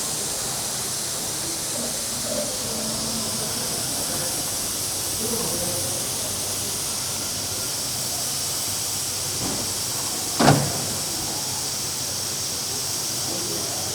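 Steady hiss of steam escaping from a standing steam locomotive. A single sharp knock stands out about ten seconds in.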